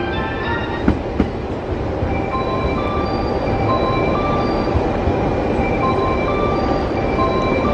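Local train approaching along the tracks: a steady rumbling noise that grows slowly louder, with short high tones coming and going over it.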